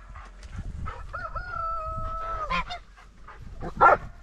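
Poultry calling: one long, level-pitched, crow-like call lasting over a second, then a short call just after it, and a loud short call near the end.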